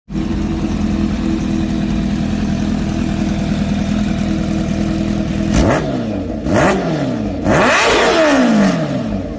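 Supercharged Kawasaki Ninja H2-series motorcycle's inline-four engine idling steadily, then revved with throttle blips: a quick one a little past halfway, another a second later, and a longer rev near the end that rises and falls.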